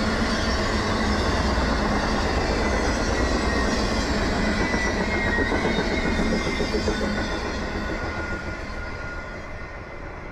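Intermodal freight train's trailer-carrying cars rolling past, steel wheels on rail with faint wheel squeal. The noise dies away steadily after about seven seconds as the end of the train recedes.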